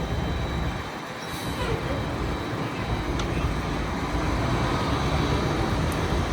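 Downtown street traffic noise with a heavy vehicle running, under gusty wind buffeting the microphone in uneven low rumbles; it grows louder from about halfway through.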